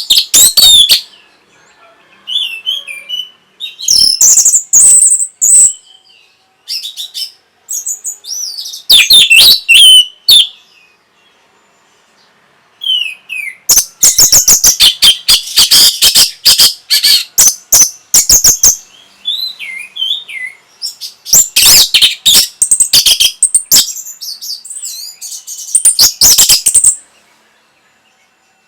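Orange-headed thrush (punglor) singing loudly in phrases of rapid sharp notes and gliding whistles, separated by pauses of one to three seconds.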